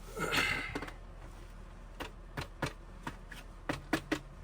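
Handling noises in a small enclosed space: a short burst of noise, then a run of about eight sharp clicks and taps, irregularly spaced, as things are moved about.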